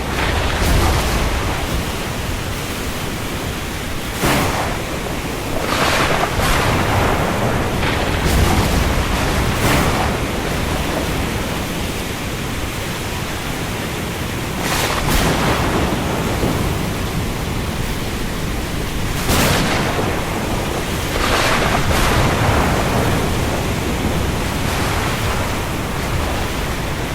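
Steady heavy rain on open sea, with brief surges every few seconds from waves splashing.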